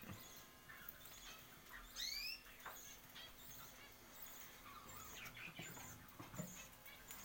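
Small birds chirping faintly, with a quick run of rising chirps about two seconds in.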